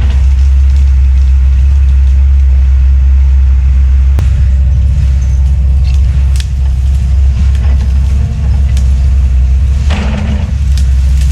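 Heavy diesel equipment running hard: a loud, steady, deep engine rumble, with a few sharp cracks and a short rushing burst about ten seconds in.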